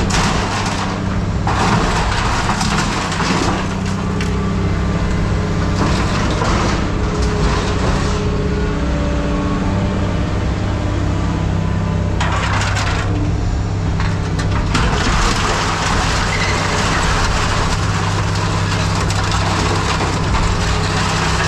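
A heavy engine running steadily, with loud rough rattling and scraping noise over it that grows stronger in the second half.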